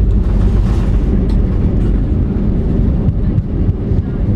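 Loud, steady low rumble of an Airbus A319 airliner heard from inside the cabin: engine and airflow noise.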